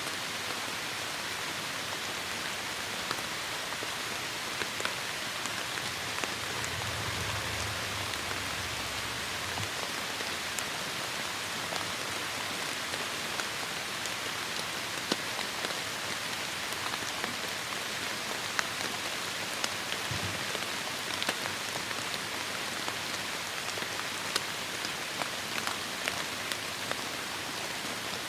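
Heavy rain falling steadily, a dense even hiss with many individual drops pattering and clicking on surfaces. A faint low rumble comes in about six seconds in and fades out around nine seconds.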